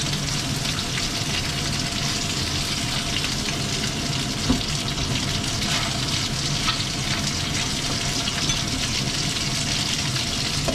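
Chicken wings sizzling steadily in hot oil in a nonstick frying pan as they brown to golden, with a few short clicks as wooden chopsticks turn them.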